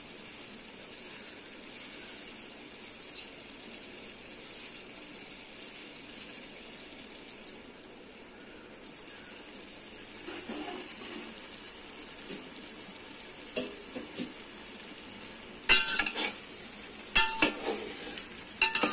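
Chicken masala with fried onions sizzling steadily in a pot. Near the end a spoon stirs it, scraping and clinking sharply against the side of the pot several times.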